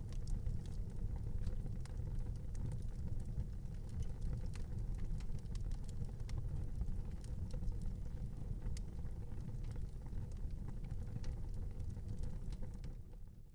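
Wood fire crackling in a fireplace: scattered sharp pops and snaps over a low steady rumble, fading out near the end.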